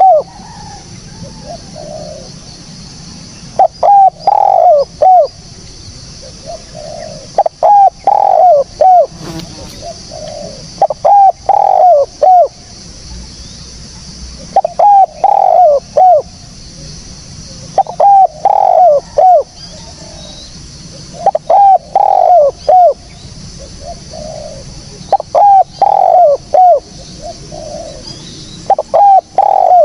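Spotted dove (tekukur) cooing: repeated phrases of four or five short coos, a new phrase about every three and a half seconds, over a faint steady high hiss.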